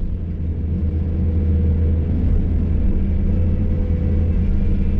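Hydraulic excavator's diesel engine running steadily, a low rumble with a faint steady whine above it.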